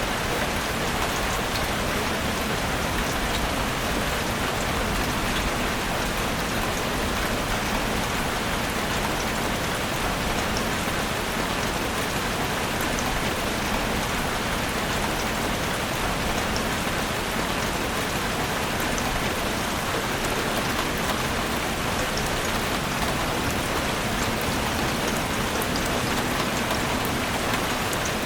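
Steady rain falling in a forest, an even hiss of drops with scattered individual drop ticks.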